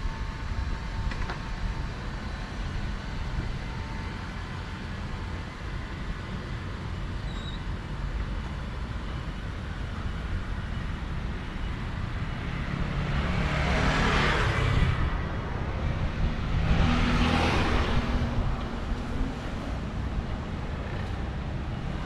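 Street traffic with a steady low rumble, as two vehicles pass close by one after the other, each swelling up and fading away, a few seconds apart past the middle.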